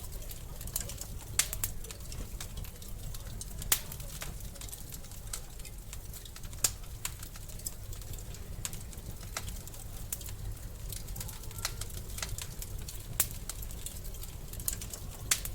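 Wood fire in a fireplace crackling: scattered sharp pops and snaps at irregular intervals, a few louder ones standing out, over a steady low rumble.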